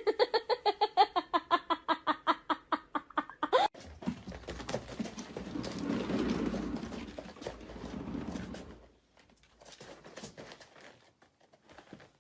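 An animal's rapid run of short pitched calls, about seven a second, stops abruptly after nearly four seconds. Softer rustling and handling noises follow.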